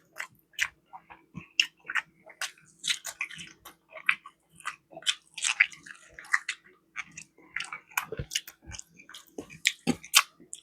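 A person chewing food close to the microphone: a run of short, irregular clicks from the mouth.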